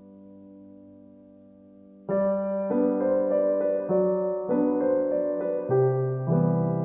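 Background piano music: a held chord fades away, then about two seconds in a gentle piano melody over chords begins, with notes struck roughly twice a second.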